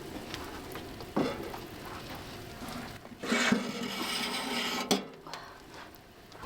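Cooking pan and utensils being handled. There is a knock about a second in, then a noisy scraping stretch of about a second and a half that ends in a sharp clack about five seconds in.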